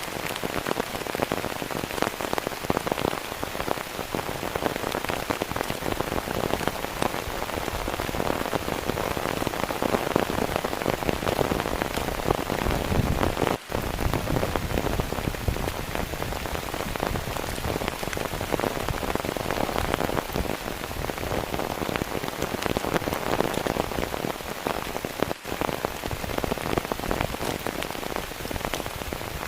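Heavy rain falling steadily, a dense patter of drops hitting a surface. The sound cuts out for an instant twice, about halfway through and again near the end.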